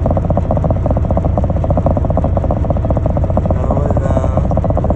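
Heavy diesel engine running steadily with a fast, even pulse.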